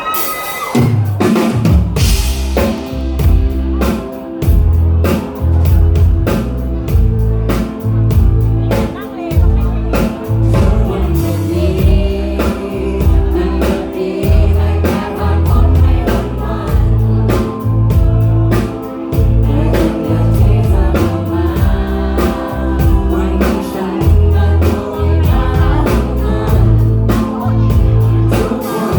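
Live band playing a song at full volume through a PA: a drum kit keeps a steady kick-and-snare beat under bass and sustained chords, with a singer's voice over the top. The music starts about a second in.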